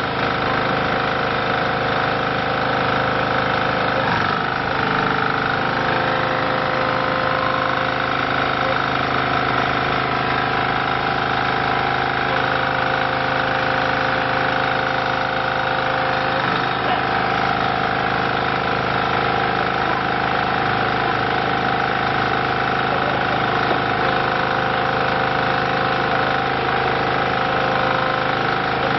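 Diesel engine of a hydraulic compressed earth block machine running steadily, with a higher tone that comes and goes a few times.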